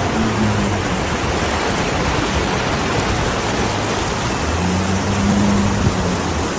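Floodwater rushing through a street: a loud, steady wash of water noise. A faint low hum comes in briefly near the start and again about four and a half seconds in.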